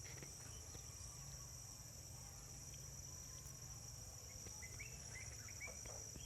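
Faint, steady insect chorus, a high continuous chirring, over a low hum, with a few short faint chirps about four to six seconds in.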